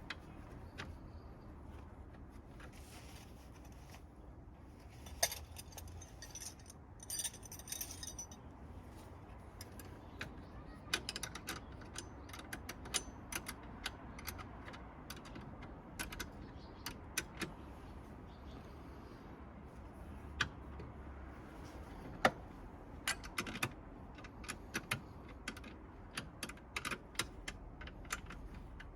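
Irregular sharp clicks and small metallic clinks of hand tools and battery fittings being handled during a car battery replacement, over a low steady hum.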